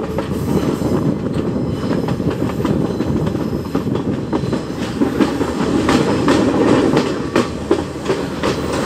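Passenger train running along the track, heard from an open carriage doorway: a steady rumble and rattle of the carriages, with the wheels clacking over the rail joints now and then.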